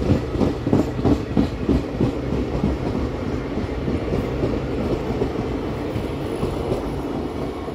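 Passenger coaches of an Indian Railways express rolling past close by, their wheels clattering over rail joints. A run of sharp knocks in the first two seconds, then a steadier rumble.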